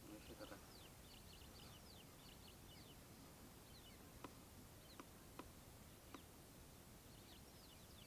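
Faint, high-pitched bird chirps, each sliding down in pitch, in quick runs during the first few seconds and again near the end. A few sharp, faint clicks fall in the middle.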